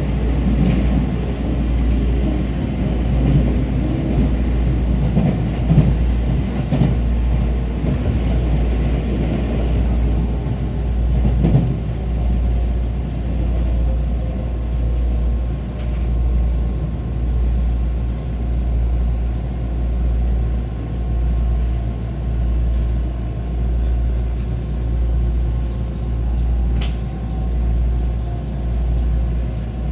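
Train running: a steady low rumble that swells and fades in a slow, even rhythm, with a couple of brief louder jolts in the first dozen seconds.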